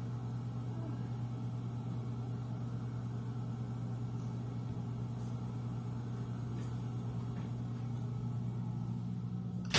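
A steady low mechanical hum, even throughout, with no speech. At the very end a sudden loud knock.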